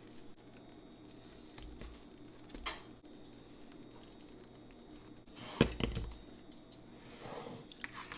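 Kitchen handling noises over quiet room tone: a few light clicks and knocks, one louder knock a little past halfway, and a brief scuffing near the end, as utensils and bread are handled during sandwich prep.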